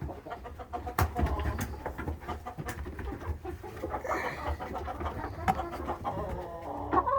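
Chickens making soft low calls in a coop, with scattered sharp clicks and scratches; a louder, pitched call begins right at the end.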